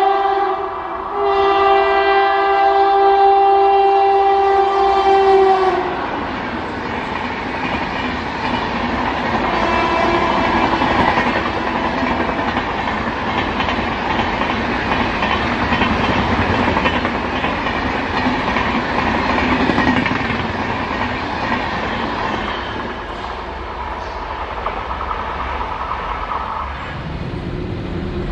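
Indian Railways express train's locomotive horn: a short blast, then a long one of about five seconds after a brief break. The train then passes at speed, its wheels clickety-clacking over the rail joints with a steady rumble of the coaches.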